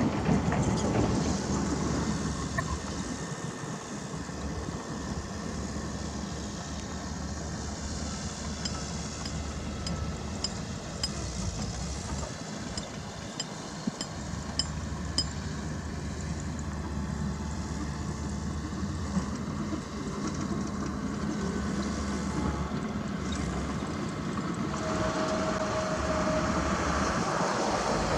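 Heavy diesel earthmoving machinery running with a steady low rumble. Faint high ticks come in the middle, and a short steady tone sounds near the end.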